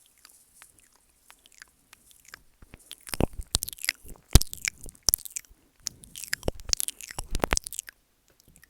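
ASMR mouth sounds right against the microphone: wet smacks, tongue clicks and the licking and nibbling of the mic. A few faint clicks at first, then about three seconds in a dense run of loud wet clicks that stops shortly before the end.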